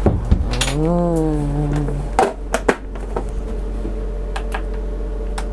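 Kitchenware clattering in a small galley: a few clicks and knocks of cups, lids and utensils while coffee is made. Early on there is a short drawn-out voice-like sound that rises and falls in pitch, and later a steady faint hum.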